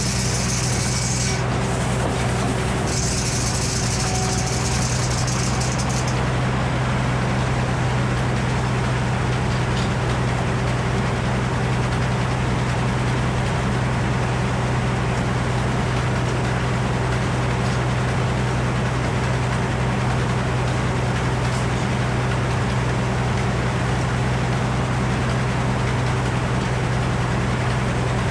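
An engine idling steadily with a low, even hum. A high hiss sits over it for the first six seconds, with a short break, then stops.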